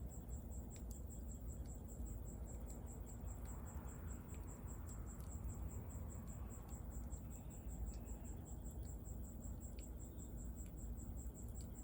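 Bonfire crackling with a few scattered sharp pops over a low, steady rumble, while a cricket chirps in a fast, even pulse.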